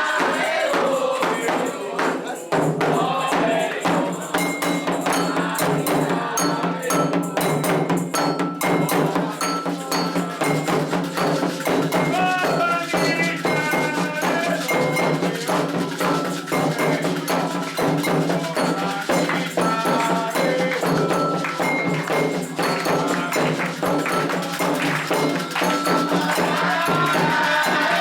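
Candomblé ritual percussion: atabaque hand drums beating a dense, driving rhythm with a ringing metal agogô bell marking the time. Voices are singing near the start and near the end.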